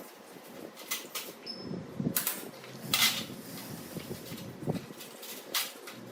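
Hand work on a microwave oven's parts: irregular knocks, clicks and short scrapes, the loudest about three seconds in.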